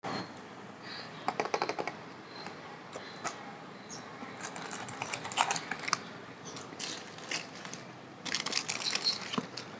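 Crinkly plastic snack packets being handled, crackling and rustling in three short bursts.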